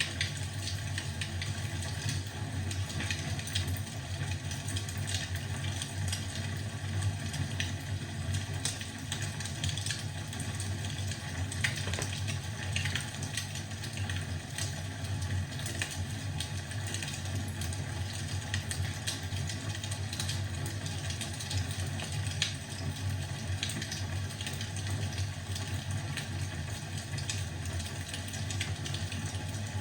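Wood fire crackling in a fireplace: frequent small pops and snaps over a steady low hum.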